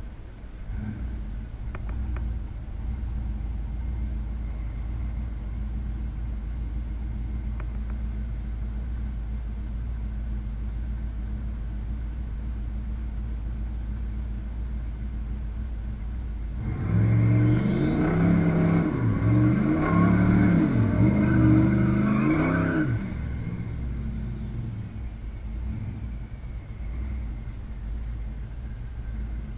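Turbocharged V8 of a 2011 Camaro SS idling steadily, heard from inside the cabin. About 17 seconds in it is revved hard for about six seconds in several rising and falling sweeps, then drops back to idle.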